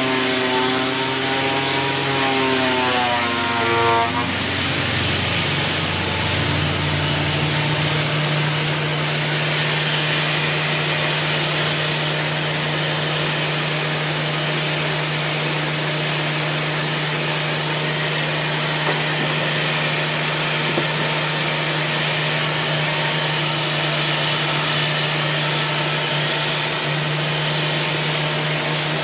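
Woodworking power tool motor running steadily. Its pitch wavers for the first few seconds, then settles into a constant hum.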